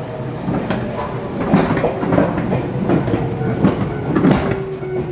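Inside a Jōmō Electric Railway train, a former Keio Inokashira Line car, running on the rails: a steady rumble with wheels clacking over rail joints several times, and a motor tone slowly falling in pitch as the train slows.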